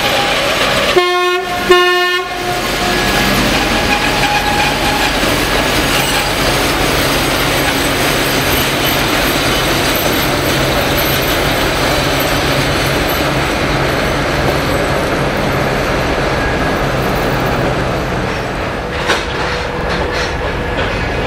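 Trains rolling past at close range: the Allegro electric train's cars, then a diesel locomotive with its engine running. About a second in, a train horn sounds two short blasts at one pitch. A sharp click comes near the end.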